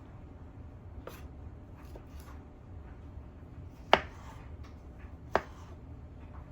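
A kitchen knife knocking on a cutting board: a few light taps, then two sharp knocks about a second and a half apart.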